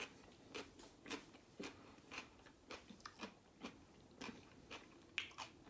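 A person chewing a last mouthful of KFC fried food with her mouth closed: faint, short, regular chewing clicks about twice a second.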